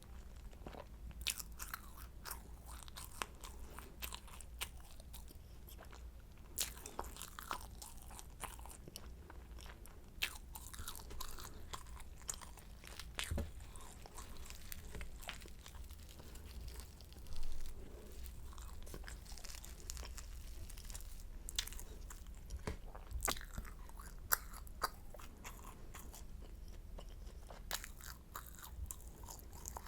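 Close-miked eating of a flaky croissant: irregular crisp crunches and crackles of the pastry being bitten and chewed, with one louder crunch a little past the middle.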